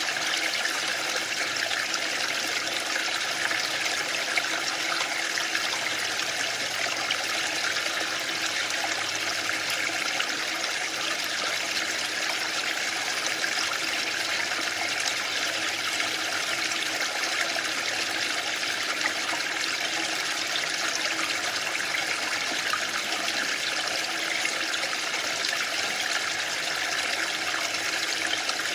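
Waterfall: a steady, unbroken rush of falling water with no surges or pauses.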